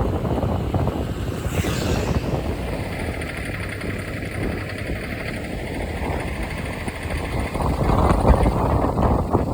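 Daihatsu Move Canbus 660 cc three-cylinder engine running with a 'katakata' rattling knock, which the owner traced to carbon deposits inside the engine. It grows louder about eight seconds in.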